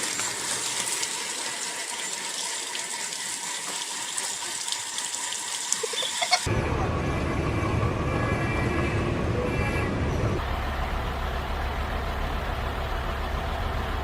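Steady vehicle and road noise, a hiss at first that changes abruptly about six seconds in to a lower rumble.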